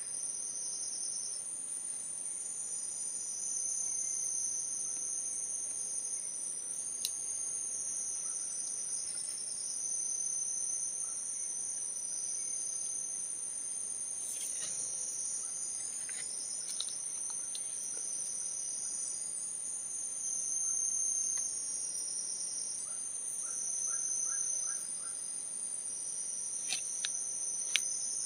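Forest insect chorus: a steady high-pitched whine with pulsing trills running under it. A few scattered clicks and snaps sound over it, and a short series of quick pulses comes near the end.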